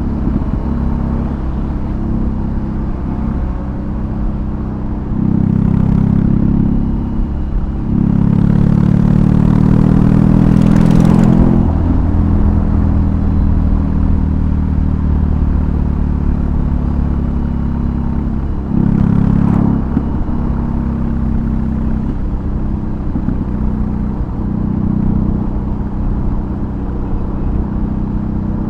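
2022 BMW R18's big boxer twin with a custom exhaust, running under way on the road. It pulls harder three times: briefly about five seconds in, for a longer stretch ending about eleven seconds in, and briefly again about two-thirds through. Between these it cruises steadily.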